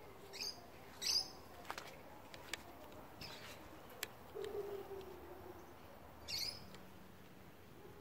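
A bird chirping in short calls, four in all, the loudest about a second in, with a few light clicks in between.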